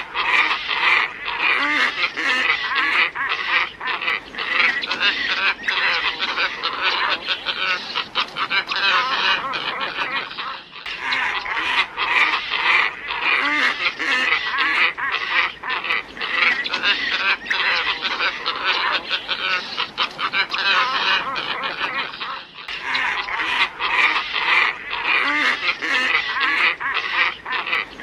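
Glossy ibis flock calling: dense, overlapping harsh calls, played as a bird-lure recording. The track loops, with a brief break about every twelve seconds.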